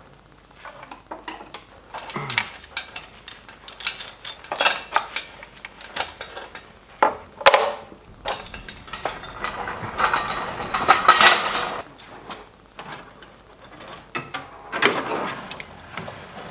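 Metal clinks, knocks and ratcheting from hand tools and hardware while a nut and bolt are fitted to a car's engine mount, with a denser run of rattling ratchet clicks partway through.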